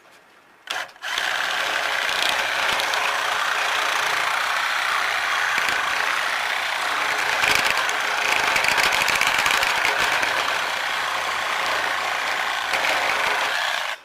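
Handheld power tool running: a short blip of the trigger, then a steady run of about thirteen seconds that cuts off suddenly near the end.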